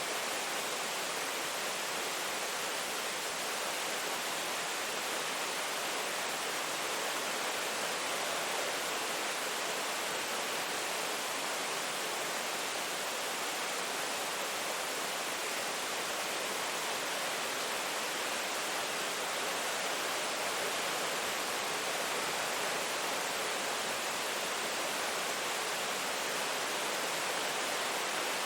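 Steady, heavy rain falling as an even, unbroken hiss, with no single drops, thunder or other events standing out.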